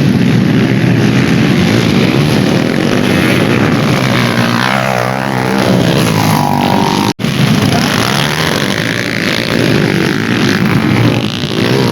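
Dirt bike engines racing on a dirt track, revving up and down as bikes pass. There is a brief cut in the sound about seven seconds in.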